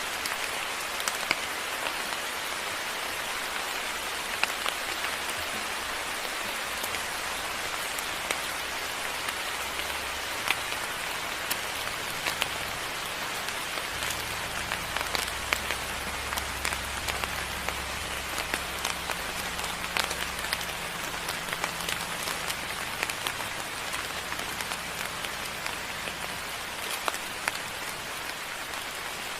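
Moderate rain falling steadily, with many distinct nearby drops ticking sharply on a surface. A faint low rumble sits underneath from about halfway through.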